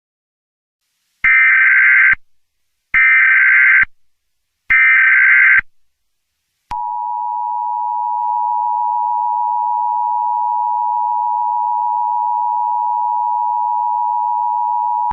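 Emergency Alert System signal: three short screeching SAME header data bursts, then, after a brief gap, the steady two-tone EAS attention signal that announces an alert message.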